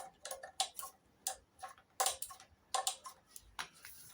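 Light metallic clicks of a spanner working the carburettor mounting nuts, several a second in irregular runs.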